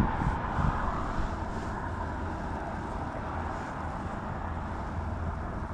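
Steady outdoor noise of wind buffeting the microphone, a low irregular rumble with a hiss above it.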